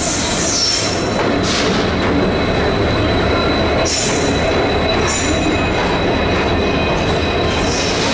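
Passenger train coaches rolling slowly along the platform: a steady heavy rumble with high-pitched wheel squeals several times.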